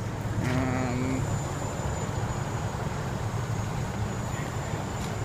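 A parked 2013 Spartan Gladiator fire engine idling: a steady low diesel rumble. A brief, low, moaning pitched sound comes about half a second in.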